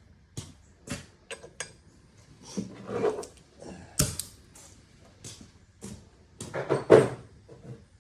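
Metal engine parts being handled on a workbench during a teardown: a string of knocks and clinks, with a sharp knock about four seconds in, and two rougher scraping, sliding sounds, the louder one near the end.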